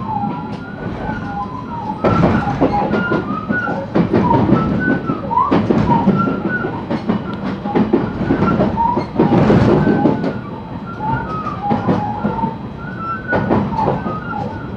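JR West 223 series electric train running at low speed, with metallic clanks and a scatter of short, high squeals from the wheels.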